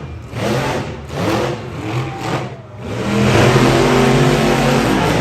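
Monster truck engine revving hard, easing off twice in the first three seconds, then held at high revs from about three seconds in.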